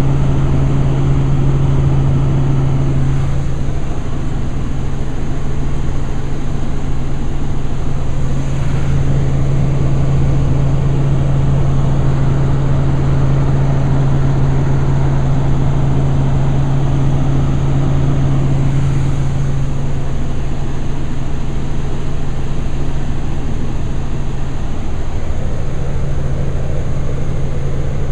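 Helicopter in flight heard from on board: a steady, unchanging drone with a strong low hum under a wash of engine and rotor noise.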